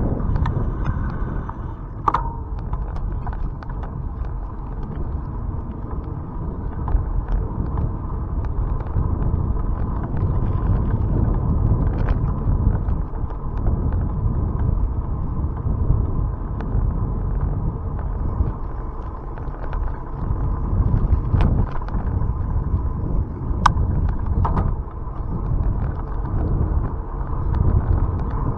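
Wind buffeting the microphone of a camera riding along on a moving bicycle, a steady low rumble that swells and eases, with a faint steady whine and a few sharp clicks or rattles from the bike.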